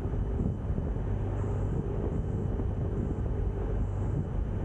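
Steady drone of a Cessna 172's engine and propeller heard inside the cockpit, on final approach.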